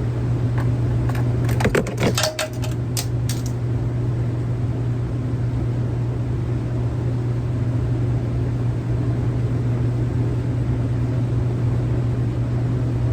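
A steady low hum, with a quick run of sharp metallic clicks and knocks between about one and a half and three and a half seconds in, from a wrench working on the truck's pump bolts.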